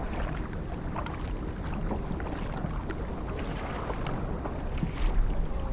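Kayak paddling: paddle blades dipping and splashing in the water with scattered drips, and wind on the microphone.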